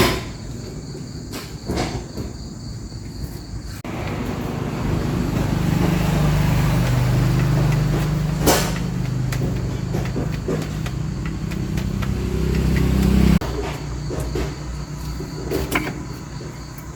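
Light clicks and knocks, then a motor running steadily for about nine seconds that cuts off abruptly, with one sharp click partway through.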